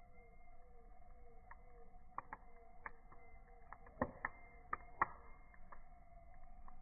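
Campfire crackling: irregular sharp pops and snaps, the loudest about four and five seconds in, over a steady faint hum.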